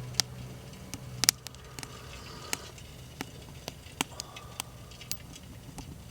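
Wood fire crackling: irregular sharp pops and snaps, one or two a second, over a faint steady low hum.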